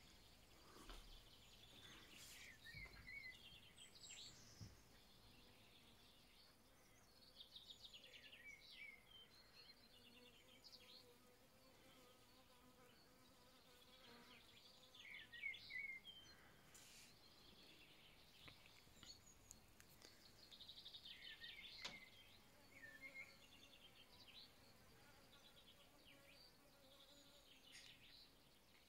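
Several different songbirds singing and calling faintly at once: short chirps, rapid trills and quick falling whistles overlapping throughout. A faint steady hum runs underneath through the middle.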